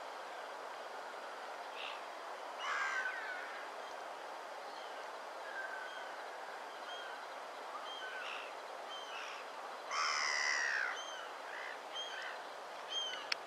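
Birds calling over a steady background hiss: many short, high chirps, and two louder, harsher calls, about three seconds in and about ten seconds in.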